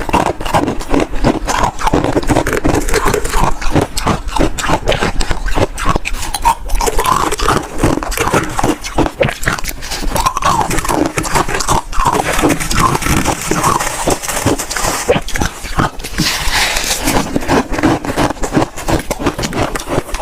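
Freezer frost being bitten and chewed close to the microphone: a dense, unbroken run of crunches.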